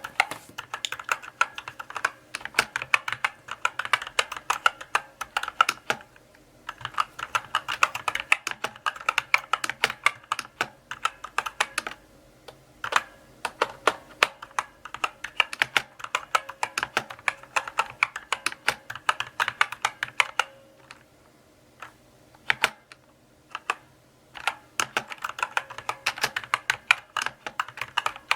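Mechanical keyboard typed on slowly: runs of sharp individual keystrokes broken by short pauses, with a longer stretch of only a few scattered keystrokes about three-quarters of the way through.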